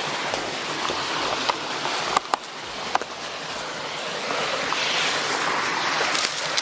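Steady rushing of water, with a few sharp clicks about two to three seconds in.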